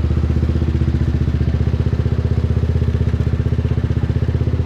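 Motorbike engine running steadily, with an even, fast pulsing beat and no change in pitch.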